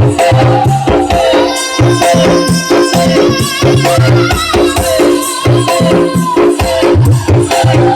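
Loud dance music with a steady beat and a repeating bass pattern, played through a large carnival sound system.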